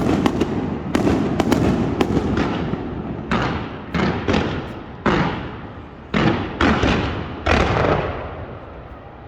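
Aerial fireworks going off: a quick string of sharp bangs, then single booms every half second to a second, each trailing off in a rumble. The bursts thin out and fade near the end.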